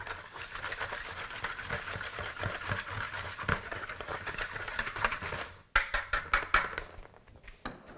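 A utensil stirring a dry flour, salt and pepper dredge in a big bowl: a quick, steady run of scratchy clicks, then several sharp taps against the bowl about six seconds in.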